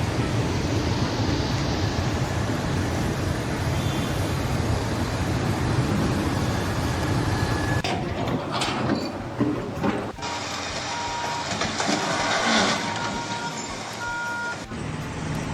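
Heavy vehicle or machinery running, with short beeping tones repeating in the second half.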